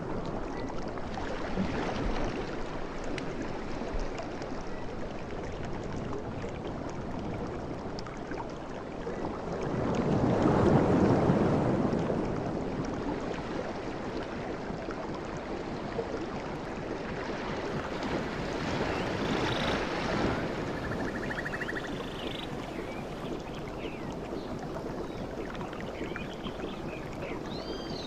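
Sea waves washing in and drawing back, with one larger wave surging about ten seconds in and another near twenty seconds. Faint short bird chirps come in over the water near the end.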